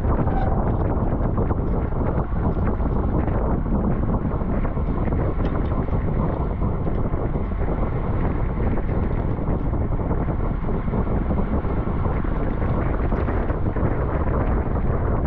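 Steady, loud wind rushing over the microphone of a road bike's onboard camera while riding at race speed.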